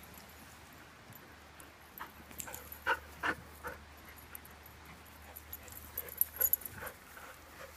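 Australian Labradoodle puppies at play: two short whimpering yelps about three seconds in, then a scatter of light clicks and rattles near the end.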